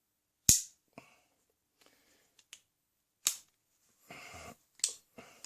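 Sharp metallic snaps of a wheellock pistol's dog (the jaw arm) being worked against its newly fitted jaw spring, which is really stiff. There are three clear snaps: the loudest about half a second in, others near three and five seconds in, with faint ticks and a short rasp just after four seconds.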